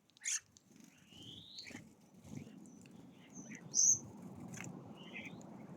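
Small songbirds at a feeder giving short high chirps and calls, including a rising call about a second in and two sharper, louder chirps near the start and at about four seconds. A steady low rumble runs underneath from about a second in.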